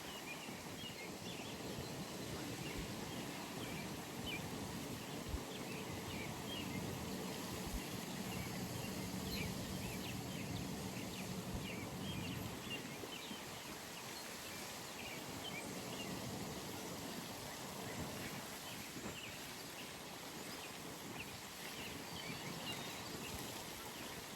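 Outdoor pond ambience: a steady background hush with many short, high bird chirps scattered throughout. A faint low hum sits under it for several seconds in the middle.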